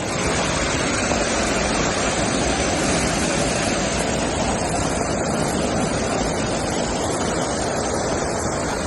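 Loud, steady rushing of water in a flash flood, unbroken and even throughout.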